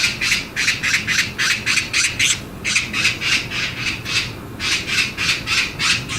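Magpie chattering: a fast, harsh rattle of repeated calls, about four or five a second, broken by two short pauses.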